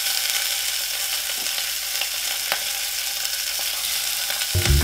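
Raw chicken pieces sizzling in a hot pot, a steady hiss with a couple of faint ticks as pieces go in. Background music comes in near the end.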